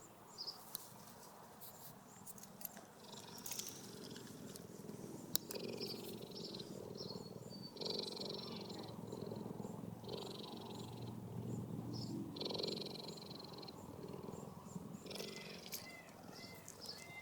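Cheetah purring in a run of long pulses, one per breath, louder from about five seconds in. Cheetahs purr like a domestic cat when they are content.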